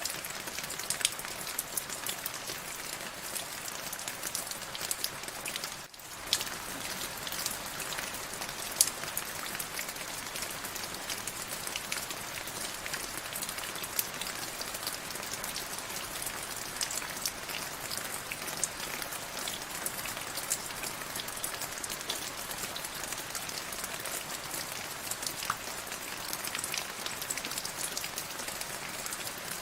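Steady rain falling, with many sharp individual drops ticking on a surface over a constant hiss. The sound dips out for a split second about six seconds in.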